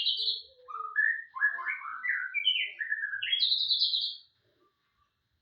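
A murai (Copsychus songbird) in full song: a fast, unbroken run of varied phrases that jump up and down in pitch. It climbs to a high phrase and stops a little after four seconds in.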